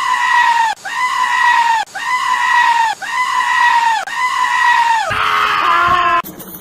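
A goat screaming again and again: five loud, high calls in a row, each about a second long and dropping in pitch at its end. Then a different, wavering bleat, and an abrupt cut to other bleating near the end.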